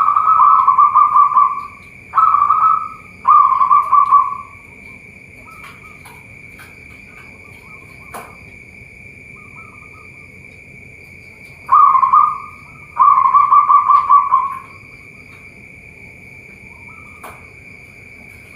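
Zebra doves (perkutut) cooing in phrases of rapid, pulsed notes: three phrases near the start and two more about twelve seconds in. A steady high-pitched drone runs underneath.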